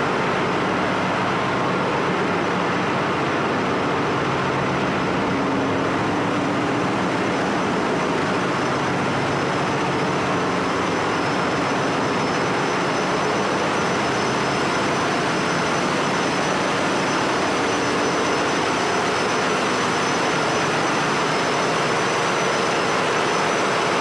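Ship's engine-room machinery running: a loud, steady, dense drone with a faint high whine held throughout.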